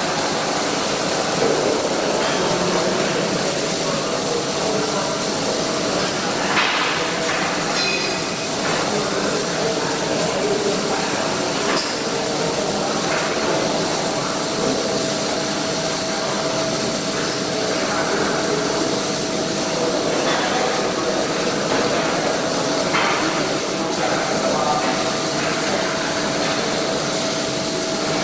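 Steady welding-shop din: an even hiss with a constant hum tone and a few short knocks.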